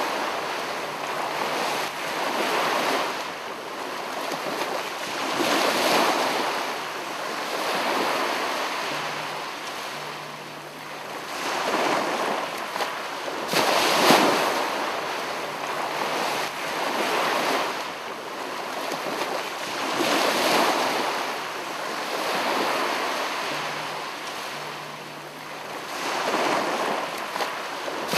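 Ocean surf: waves wash in and fall back every few seconds as a rushing noise that swells and fades. The same stretch seems to repeat after about fourteen seconds, as a looped ambience track would.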